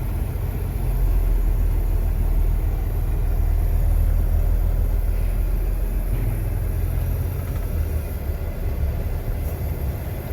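Semi-truck's diesel engine running with a steady low rumble as the truck drives onto a weighbridge; the engine note shifts about six seconds in.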